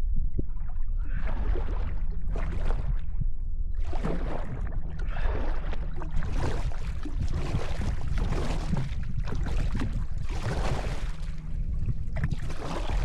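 Kayak paddle strokes in water, a splashing swish every second or two, over a steady low rumble.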